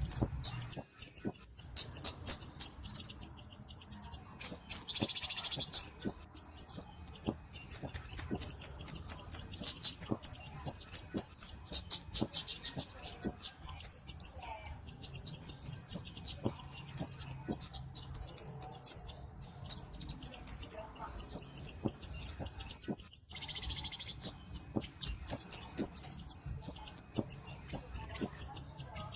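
Flowerpecker (cabe-cabean) song: rapid strings of very short, high-pitched ticking notes run together into trills, repeated in phrases a few seconds long with brief pauses between them. A faint low hum lies underneath.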